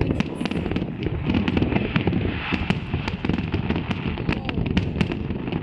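Fireworks display going off without a break: dense, overlapping bangs and crackles over a continuous low rumble.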